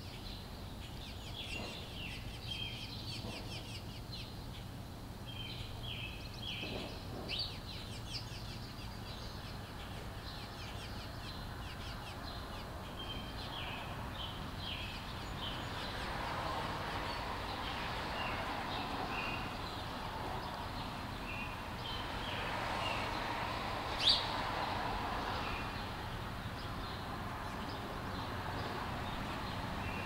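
Small songbirds chirping, many short repeated chirps. A steady rushing noise swells up in the second half and eases off near the end, and there is one sharp click about four-fifths of the way through.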